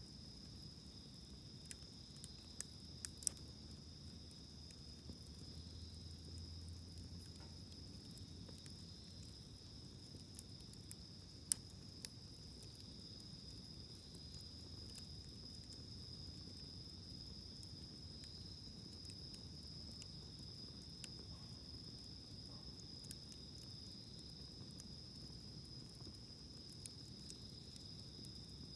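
Wood campfire crackling faintly, with scattered sharp pops, the loudest about three and eleven seconds in, over a steady high chirring of insects.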